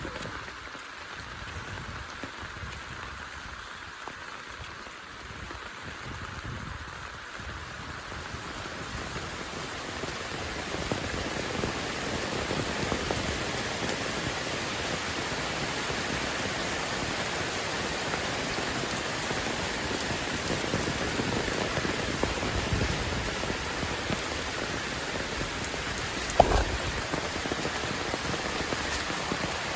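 Heavy rain falling, a steady hiss that grows louder about a third of the way in. Near the end there is a single sharp thump.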